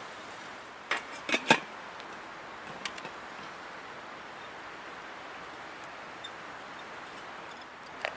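Steady rush of a flowing river, with three sharp knocks close together about a second in and another near the end.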